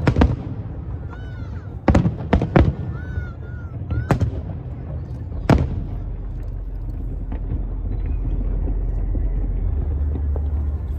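Aerial fireworks bursting, about six sharp bangs in the first six seconds with echoing tails, three of them close together around two seconds in. After that the bangs stop and a steady low rumble carries on.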